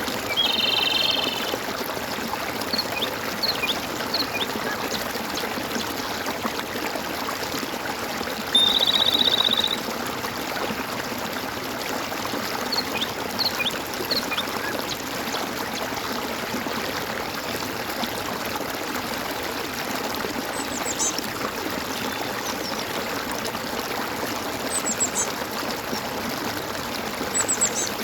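A stream flowing steadily over rocks, with animal calls above it: a buzzy trill about a second long near the start and again about a third of the way in, scattered short chirps, and a few thin high calls near the end.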